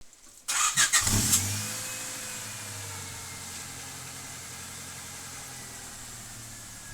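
Honda Civic four-cylinder engine starting through its stock exhaust and muffler: a short burst of cranking about half a second in, catching about a second in, then settling into a steady idle that slowly quietens.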